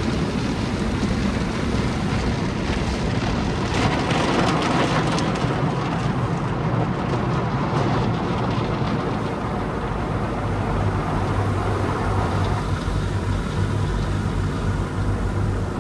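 Conveyor car wash tunnel equipment running around a car: a steady mix of water spray and machinery noise, with a low steady hum coming in about two-thirds of the way through.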